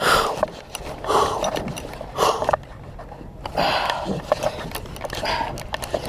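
A man breathing hard, about five heavy breaths a second or so apart, while straining against a big shark on the rod.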